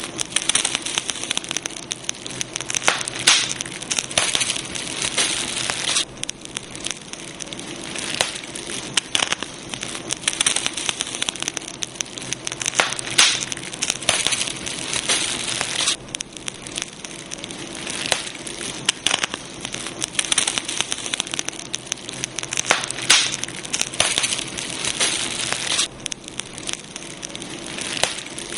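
Campfire burning, crackling with frequent irregular pops and snaps over a steady hiss.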